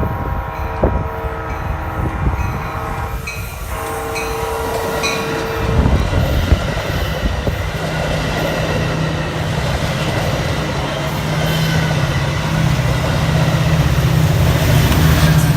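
Train horn sounding a held chord that stops about five seconds in, followed by the train drawing near, its steady low engine hum and rail noise growing louder toward the end. Wind buffets the microphone.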